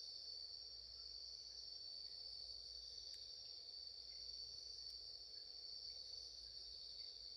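A steady, faint chorus of singing insects: one unbroken high trill. A campfire gives a few faint crackles over it, two of them sharper, about three and five seconds in.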